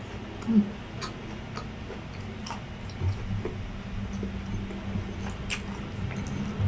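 Close-miked chewing of grilled isaw (intestine skewers): scattered wet clicks and smacks of the mouth, with a louder bite about half a second in and again about three seconds in.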